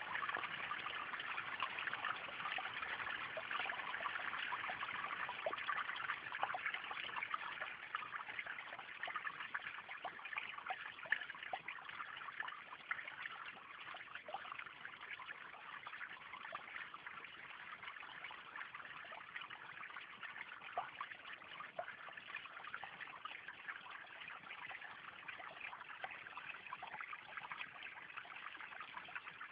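Water of a small waterfall splashing and trickling steadily, a little louder over the first several seconds.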